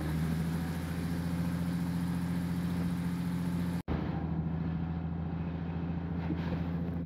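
Diesel-hauled passenger train running along the track, heard from an open carriage window: a steady low engine drone with rail and wheel noise. The sound cuts out for an instant about four seconds in, then carries on the same.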